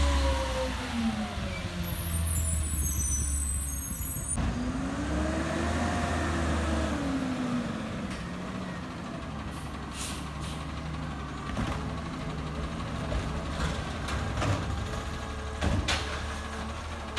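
Garbage truck's CNG engine winding down, then revving up and back down once, then idling steadily. Several short sharp clanks or clicks come in the second half.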